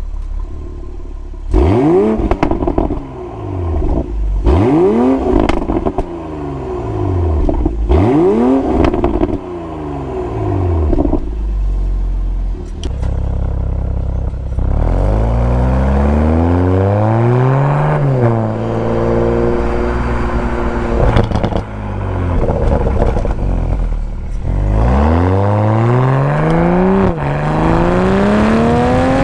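Toyota GR Supra (A90) engine and exhaust: three quick rev blips, then a long pull with the pitch climbing, an upshift about two-thirds of the way in, and a second climb with another shift near the end. A few sharp pops break in between the pulls.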